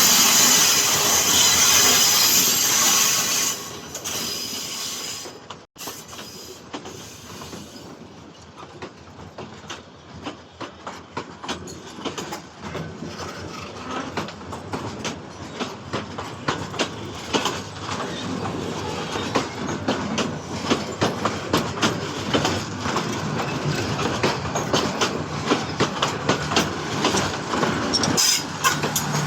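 Train wheels clattering over rail joints and points as the train crosses from one track to another: a rapid run of clicks that grows louder and denser. A loud, even rushing noise in the first few seconds drops away about four seconds in.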